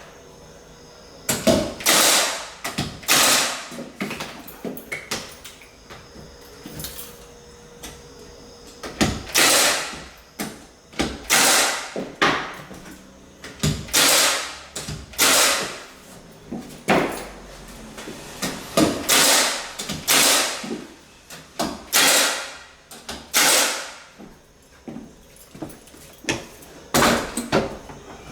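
Hardwood floorboards being fastened down: a series of sharp, ringing bangs, about a dozen, often a second or two apart and sometimes in pairs.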